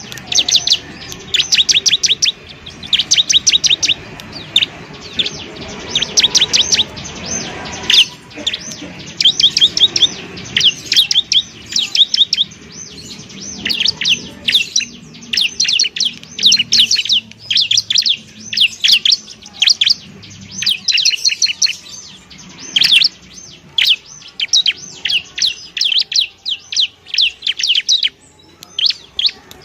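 Bar-winged prinia (ciblek) singing: rapid bursts of sharp, high, chattering notes, one burst after another with only short pauses.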